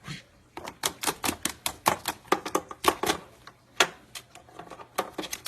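A parrot biting and crunching with its beak, making a quick, irregular run of sharp clicks, several a second.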